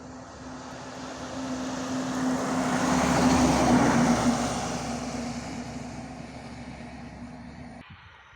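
A truck driving past: its engine noise builds to a peak about three to four seconds in and then fades away, with a steady engine hum throughout. The sound cuts off abruptly near the end.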